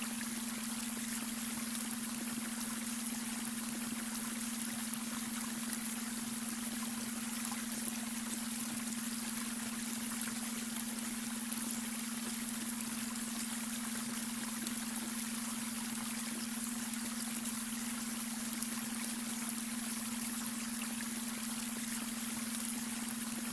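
Babbling brook: a steady, even rush of running water, with a steady low pure tone underneath, the beta-wave brainwave tone mixed in with the water.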